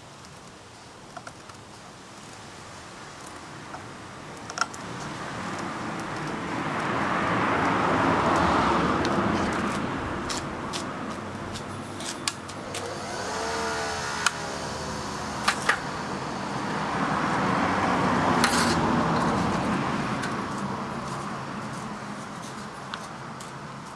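Small homemade disc sander running at low speed, with a rasping sanding noise that swells and fades twice, a workpiece pressed against the disc. A short falling whine comes between the two swells, and light clicks are scattered throughout.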